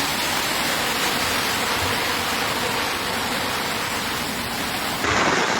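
Storm water from torrential rain or flooding: a steady, even rushing hiss that changes abruptly near the end to a gustier, harder sound.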